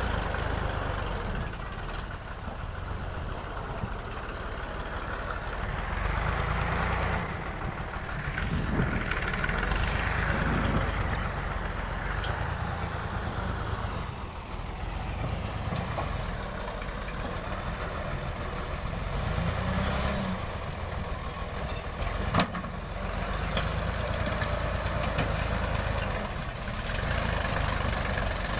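New Holland Ghazi tractor's diesel engine running steadily, its loudness rising and falling gently a few times. A single sharp knock comes about three quarters of the way through.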